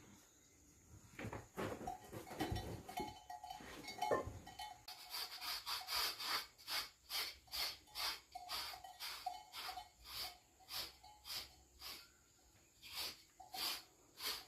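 A few irregular knocks, then from about five seconds in a steady run of short, hissy scraping strokes, about two to three a second.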